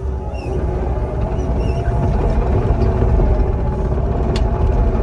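Skid steer engine running steadily under load, a continuous low rumble with a steady drone, with a few faint high chirps in the first two seconds and a sharp click near the end.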